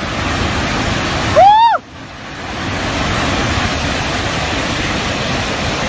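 Steady roar of surging water, with a person crying out once about a second and a half in.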